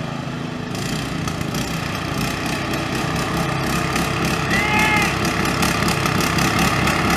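Walk-behind lawn mower engines running hard, the sound growing steadily louder, with a short high call about halfway through.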